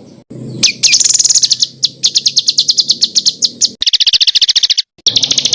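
A small songbird's rapid 'tembakan' trills: fast strings of sharp, high repeated notes, about a dozen a second, broken by short gaps, with a lower, rougher run near the end. This is masteran material, the fast volleys played to tutor competition songbirds.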